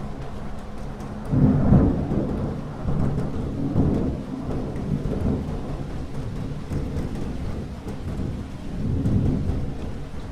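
Thunder rumbling over steady rain, in low rolling swells: the loudest about a second and a half in, another around four seconds, and a third near the end.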